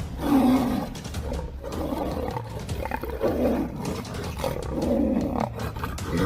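A tiger roaring, several separate roars a second or two apart, over a steady low rumble.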